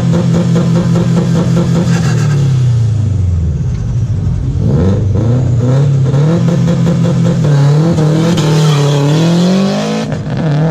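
Sports car engine revved hard through an aftermarket exhaust. It is held high for about two seconds and drops back, then comes a run of shorter revs that rise and fall several times.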